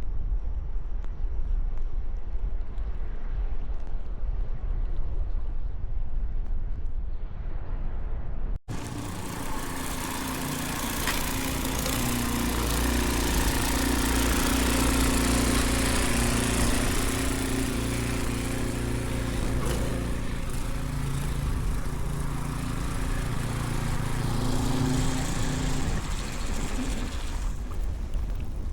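Wind buffeting the microphone, then, after a cut about nine seconds in, an engine running steadily under a hiss, fading out near the end.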